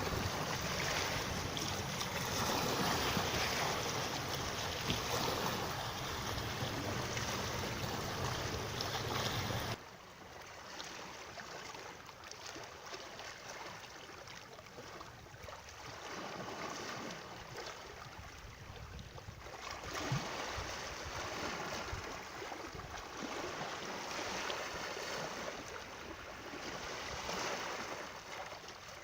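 Running water, a steady wash of noise that drops abruptly to a quieter wash about ten seconds in.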